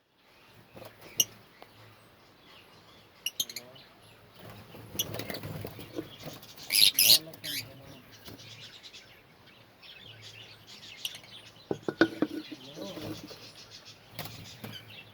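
Lovebirds chirping: short, sharp high-pitched calls at scattered moments, with a louder burst of calls about seven seconds in.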